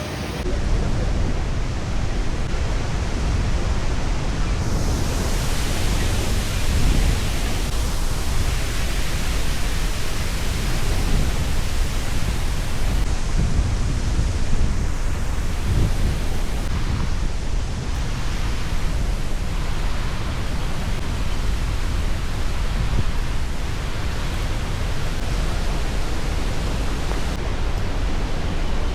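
Waterfall's steady roar of rushing water.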